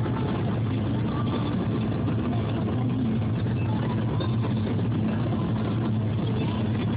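Steady car engine hum and road noise heard from inside a moving car's cabin.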